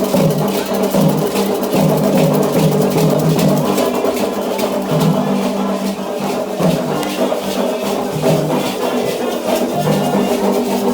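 Candomblé ceremonial music: drumming and percussion beating a steady rhythm, with sustained pitched sound layered over it.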